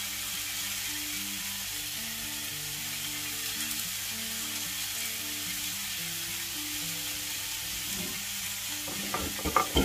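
Bacon-wrapped sausages and chunky onion sizzling steadily as they fry in oil in a pan on medium heat.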